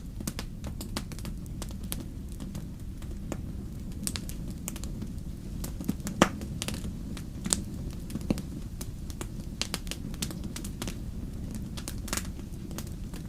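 Wood fire crackling: irregular pops and snaps over a steady low rumble, with one sharper pop about six seconds in.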